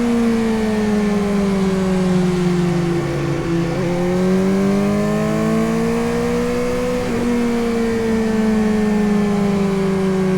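Suzuki GSX-S750's inline-four engine running under way. Engine speed eases off, builds again from about four seconds in, then eases off once more after about seven seconds.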